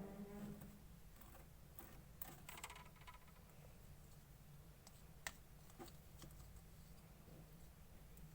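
Faint, sparse sticky clicks and crackles of clear slime being mixed and pressed by hand, with a cluster of them about two to three seconds in and one sharper click about five seconds in.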